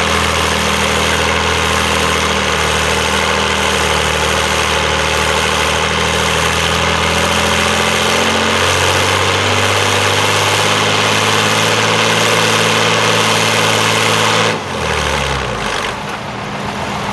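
Oliver 1655 diesel tractor engine running hard under load while pulling the sled, its pitch stepping up about halfway through. Near the end it is suddenly throttled back and the engine speed falls away.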